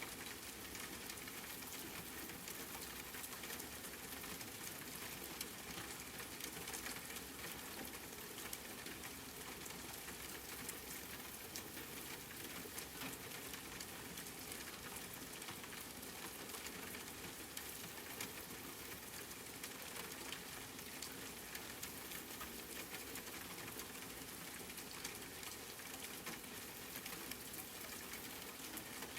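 Steady rain, a continuous hiss with a dense patter of individual drops ticking on a surface.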